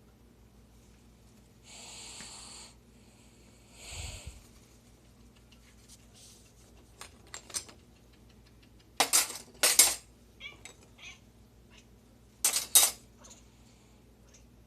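A house cat making an unusual breathy noise twice, each about a second long, followed by silverware clattering loudly in two bursts of sharp clinks as dishes are put away.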